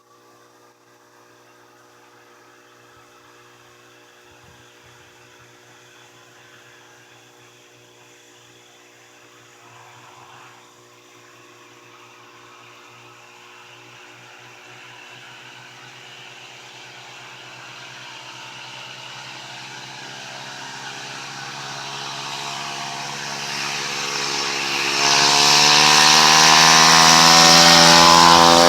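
Honda GX31 four-stroke single-cylinder engine on a mini bike, running at steady throttle as it approaches from far off. It grows steadily louder throughout and is loudest near the end as it comes close.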